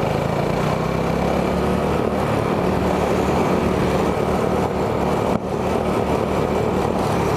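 Go kart's 212cc single-cylinder engine running hard at full throttle, holding a steady pitch, with a brief dip about five and a half seconds in.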